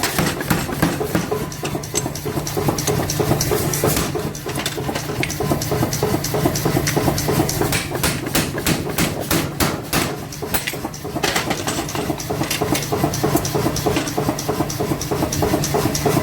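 Hammer blows on hot metal during forging, repeated throughout over a steady machine hum, with a quick run of strikes around the middle.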